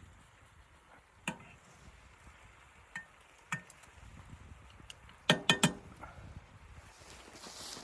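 Hard objects clinking and knocking: single knocks about a second in and around three seconds, then a quick run of three louder, ringing clinks a little past five seconds.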